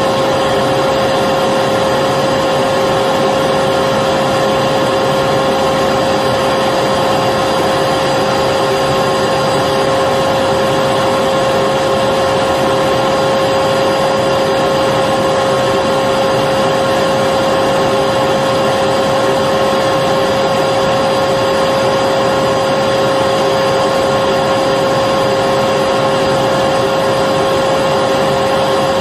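Electric vacuum cleaner running continuously: a steady rushing of air with a constant motor whine that never changes in pitch or level.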